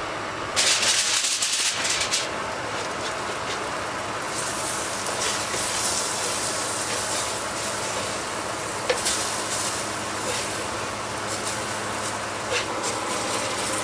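Aluminium foil crinkling loudly as it is lifted off a frying pan, then puffball mushroom slices sizzling in butter with a steady hiss. A spatula clicks against the pan a few times.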